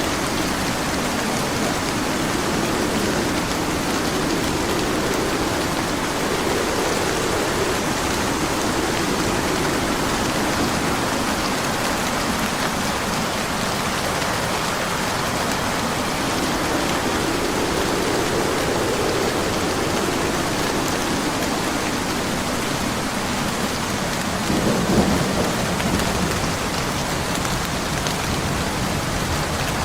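Steady heavy rain with low rolling thunder that swells and fades several times, and a sharper, louder thunder peal near the end.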